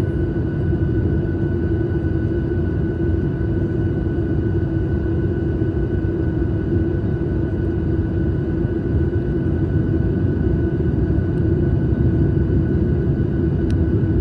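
Steady drone of an airliner in flight heard from inside the cabin: engine and airflow noise with a constant low hum and a fainter high whine over it.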